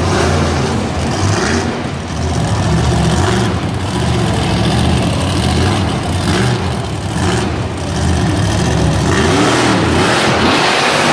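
Monster truck's supercharged V8 engine revving hard, the engine note rising and falling again and again.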